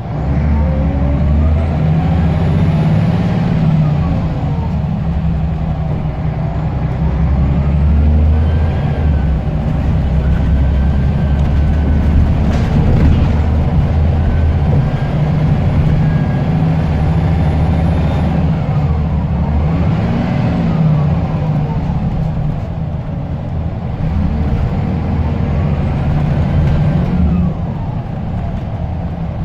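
Scania L94UB bus's diesel engine and turbocharger under way, the engine note rising and then dropping about every five to six seconds as the semi-automatic gearbox changes up, over a heavy low rumble. A high turbo whistle sounds throughout.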